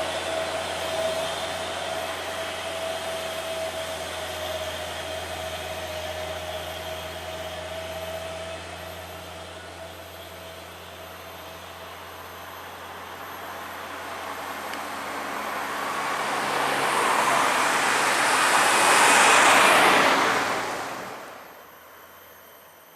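Road traffic of heavy vehicles passing by. A steady engine drone fades away over the first several seconds, then another vehicle approaches, its engine and tyre noise swelling until it is loudest near the end and dying away quickly as it goes past.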